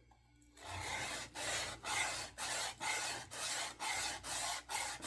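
A hand sanding plane rubbed back and forth along the flat facets of a wooden axe handle's octagonal grip. The strokes start about half a second in and come evenly, about two a second, with a dry, rasping scrape.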